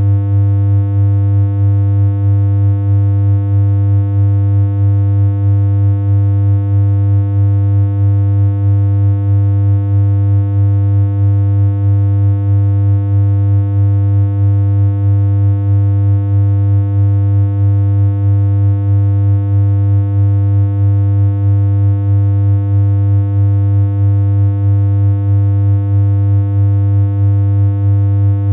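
Steady synthesized hum from a BeepBox chiptune synth: one low, unchanging buzzy tone held throughout, with a slight regular pulse in loudness.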